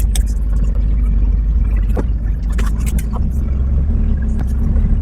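A car engine running steadily, a low even rumble, with scattered light clicks and knocks over it.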